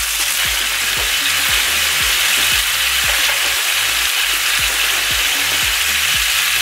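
Scallops and chorizo sizzling steadily in oil in a frying pan, searing. Background music with a steady beat runs underneath.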